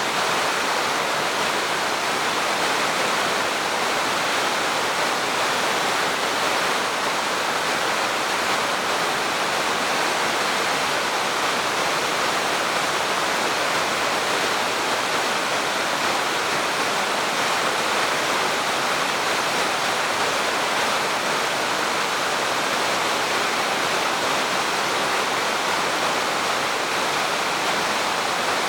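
Spring-fed mountain stream rushing with a steady, unbroken sound of flowing water.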